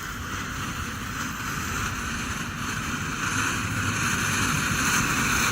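Ground firework hissing steadily as it sprays, slowly growing louder.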